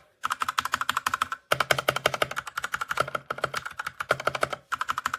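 Fast typing on a Redragon K617 Fizz 60% mechanical keyboard: a rapid, continuous clatter of key clicks with brief pauses about a second and a half in and again near the end.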